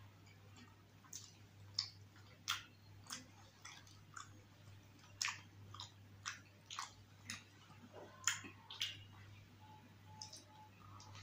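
Close-up mouth sounds of chewing soft, yogurt-topped chaat: wet smacks and irregular crisp clicks, a few a second, over a faint steady hum.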